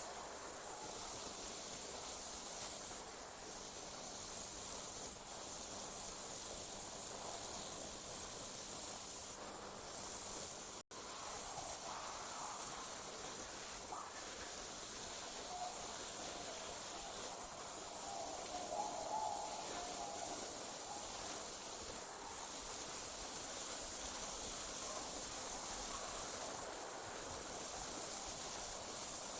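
Night insect chorus of crickets: a steady, high-pitched shrill trill with short breaks every few seconds. It cuts out completely for an instant about eleven seconds in.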